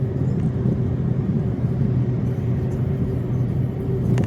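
Steady road and engine noise heard inside a moving Renault Samsung SM3 sedan: an even, low droning hum.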